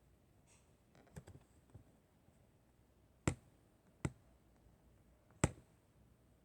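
A few faint taps, then three sharp clicks about a second apart in the second half.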